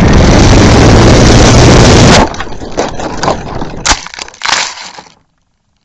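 Onboard camera audio from an RC foam plane crashing: a loud rush of wind and motor noise stops suddenly about two seconds in. A few seconds of crunching and cracking knocks follow as the airframe hits the ground and breaks up.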